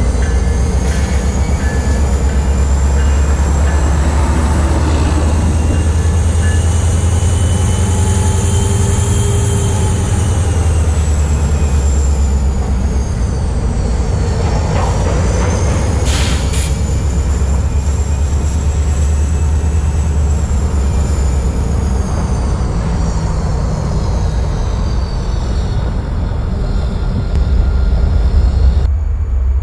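EMD SD40-2 diesel locomotive working a yard cut of freight cars, its 16-cylinder two-stroke engine giving a steady low rumble. Wheels squeal on the yard curves in high tones that slowly rise and fall.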